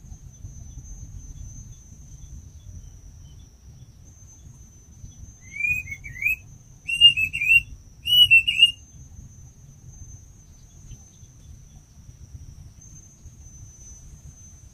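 A bird calls close by in three short phrases of wavering whistled notes, about a second apart, a few seconds in. Under it an insect trills on one steady high note throughout.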